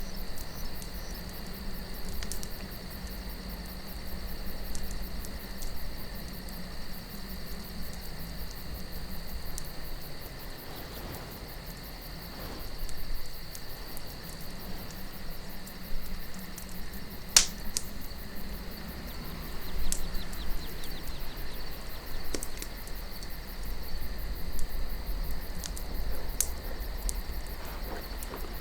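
Campfire crackling, with scattered sharp pops of burning wood, the loudest about 17 seconds in, over a low, steady wind rumble and a continuous high cricket trill.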